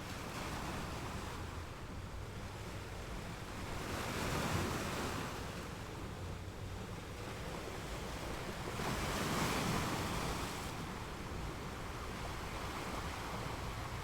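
Ocean waves breaking and washing in: a steady surf hiss that swells twice, about four seconds in and again about nine seconds in.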